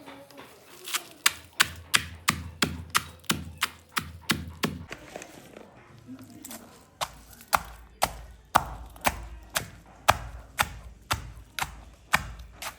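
A steady series of sharp knocks, about three a second at first, then about two a second after a short pause.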